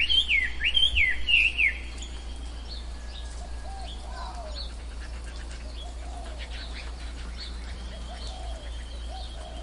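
Tropical forest birds calling: one bird gives a loud run of quick, sweeping whistled notes that stops about two seconds in, then fainter scattered chirps and lower sliding calls from other birds carry on.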